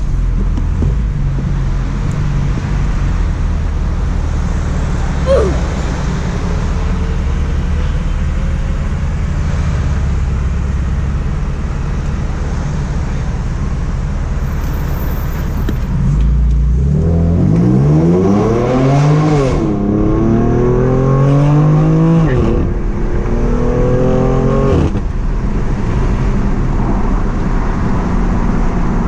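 BMW M4's twin-turbo straight-six, breathing through an Akrapovic full exhaust system, cruising steadily. About halfway through it accelerates hard: the engine note rises through three gears with quick upshifts between, then settles back to a steady cruise.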